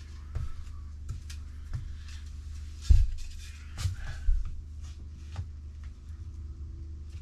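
Scattered knocks and clunks of engineered hardwood flooring planks being handled and set into place, the loudest thump about three seconds in, over a steady low hum.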